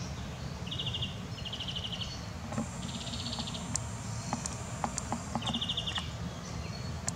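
Birds calling: short, rapid trills repeated every second or two, with sharp high chirps in between, over a steady low rumble.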